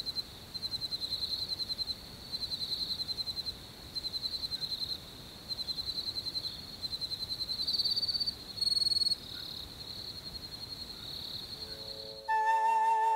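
Crickets chirping in repeated trills of rapid pulses, each trill about a second long with short gaps, over a faint hiss, with two brief higher chirps about eight seconds in. Flute music comes in near the end.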